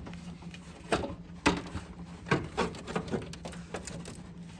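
A series of sharp knocks and clicks, about five or six, from aircraft engine parts being handled and fitted, over a steady low hum.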